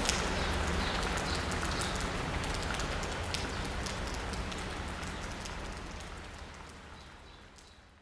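Rain pattering on asphalt and roofs, with scattered individual drops ticking and a low steady city rumble beneath. The whole sound fades out gradually toward the end.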